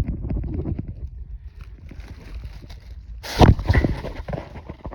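Rustling and crackling of dry brush and leaves as a person moves in close, with many small snaps and clicks and one loud scuffle about three and a half seconds in.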